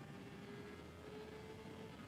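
Sport motorcycle engine heard from an onboard camera, a faint steady tone climbing slowly in pitch as the bike accelerates.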